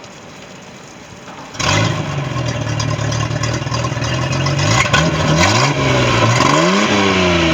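Monterey boat's engine starting suddenly about a second and a half in and idling, then revved up twice, the pitch rising and falling back each time; it now starts and runs after a no-start fault.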